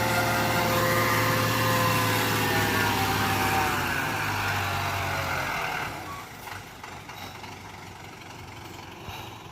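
Heavy vehicle engine running hard, its pitch sliding down a few seconds in. About six seconds in it drops to a much quieter, steady engine sound.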